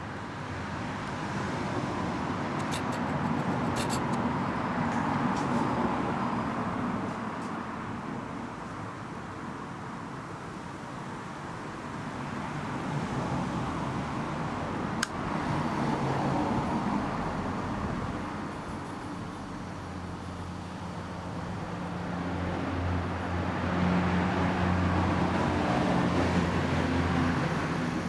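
Small homemade disc sander running at low speed, its motor humming steadily under a sanding noise that swells and fades about three times. A sharp click about halfway through.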